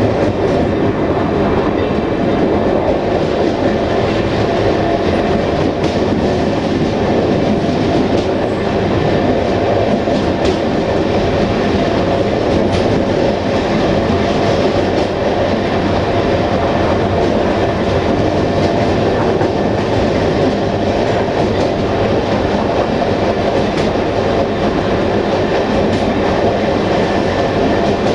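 Passenger train carriage running steadily along the track, wheels rolling on the rails with a constant rumble and occasional clicks over rail joints.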